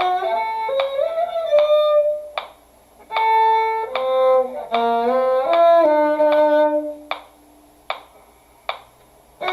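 Solo violin playing a slow melodic line of separate bowed notes, with short, evenly spaced clicks about every 0.8 s keeping the beat. The violin stops about 7 s in, leaving only the clicks.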